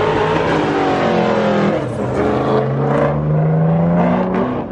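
A car engine revving: its pitch falls, then climbs a little and holds before dropping off near the end.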